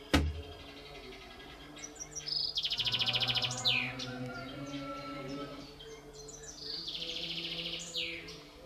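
A songbird singing two phrases, each a fast trill of high notes that ends in a falling sweep. A sharp click sounds just after the start, and a faint low hum runs underneath.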